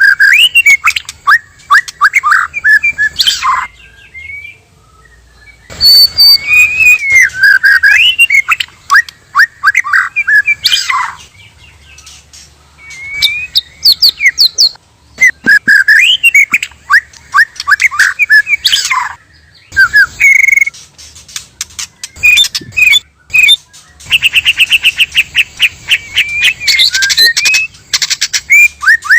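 White-rumped shama song: bursts of fast, varied rising and falling notes broken by short pauses, ending in a quick run of rapidly repeated notes.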